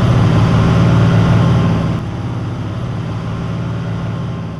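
Large diesel tractor engine running steadily, a deep, even drone that drops a little in level about two seconds in.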